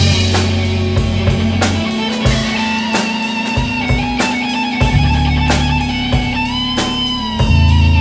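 Instrumental rock jam in A major: electric guitar holding sustained notes, one bending up in pitch near the end, over a steady drum-kit beat. The bass drops out for a couple of seconds in the middle, then comes back in.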